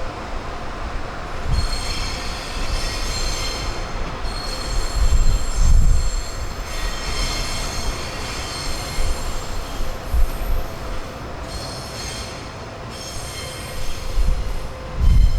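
Train wheels squealing on the rails in several bouts of high, ringing tones, over the low rumble of the train rolling slowly.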